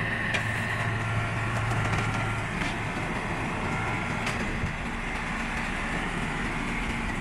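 Steady drone of running machinery with a low hum that eases off a couple of seconds in, and a few faint light ticks.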